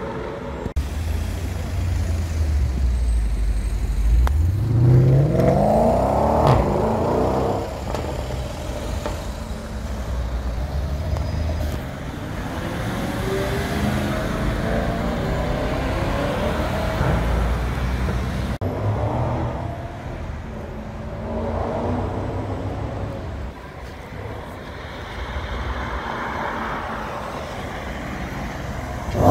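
Performance car engines accelerating hard, each climbing in pitch through one gear change after another. The loudest run comes about five seconds in. The cars include a Mercedes-AMG E63 saloon and a Porsche Panamera.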